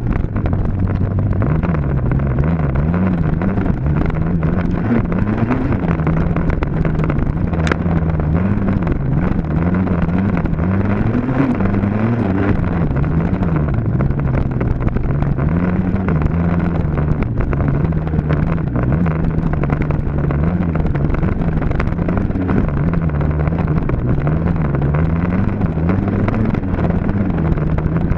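Dirt bike engine ridden hard, its pitch rising and falling over and over as the throttle is worked, with no let-up in level.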